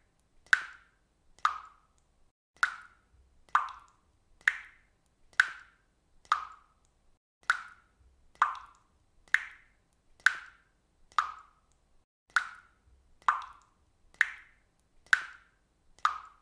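Water dripping from a faucet: a steady run of single drops, about one a second, each a short plop.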